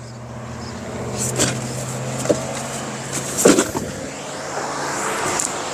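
A motor vehicle running with a steady low hum that fades out about three and a half seconds in, with a few sharp knocks.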